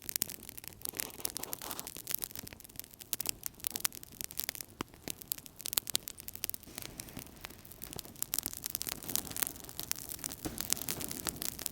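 Wood fire crackling in a fireplace: many sharp pops and snaps, several a second and irregular in strength, over a soft steady hiss of burning.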